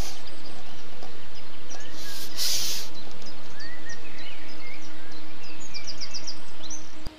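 Small birds chirping and singing over a steady rushing outdoor noise, with a brief louder hiss about two and a half seconds in; the sound cuts off sharply near the end.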